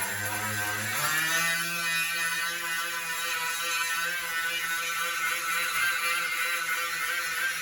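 Electric grinder with a grinding pad spinning up in the first second, then running at a steady whine while grinding old paint off a steel truck door.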